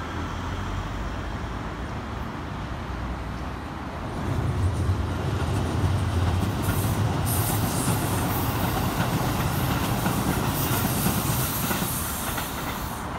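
A Keikyu 1000 series electric train passing close by, its wheels rumbling on the rails. It gets louder about four seconds in, and a high hiss rides over the rumble through the second half.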